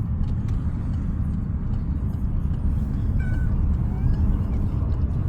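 Steady low rumble of a car driving, heard from inside the cabin, with a brief faint high squeak about three seconds in.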